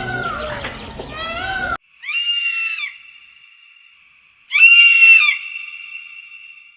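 Animal calls: a quick series of short, arching cries, then after a break two loud, high, drawn-out screams about two and a half seconds apart.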